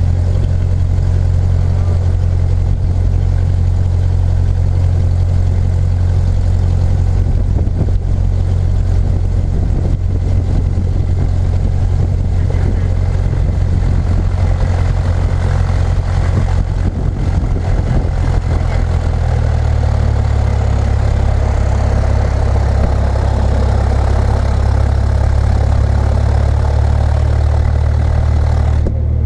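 An engine running with a steady low drone, its pitch shifting slightly about two-thirds of the way through.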